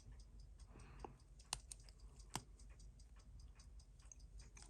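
Faint, even ticking of a Seiko 6139 automatic chronograph movement, about six ticks a second, with two sharper clicks a little under a second apart in the middle.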